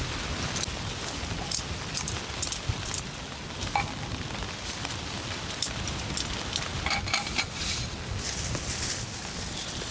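Steady rain falling, with scattered sharp drop taps and a couple of brief light clinks.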